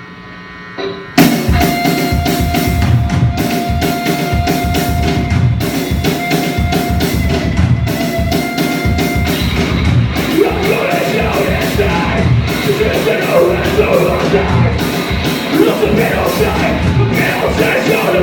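Live rock band with drum kit and distorted electric guitars crashing in loudly about a second in and playing a fast, heavy, metal-style song, after a moment of amplifier buzz.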